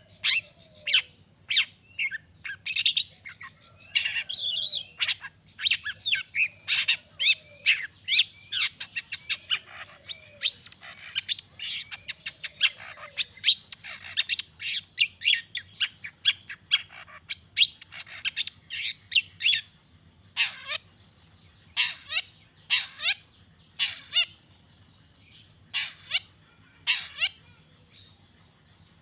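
Long-tailed shrike singing vigorously: a fast run of sharp, harsh chirps and squawks, densest through the middle and thinning to spaced single calls in the last third.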